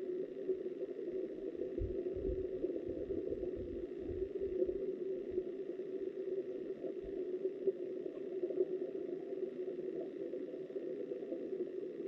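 Steady, muffled rush of river water heard underwater, with a run of low bumps between about two and five seconds in.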